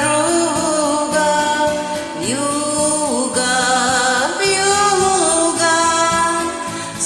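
A woman singing a Russian song over a karaoke backing track, holding long notes with some vibrato.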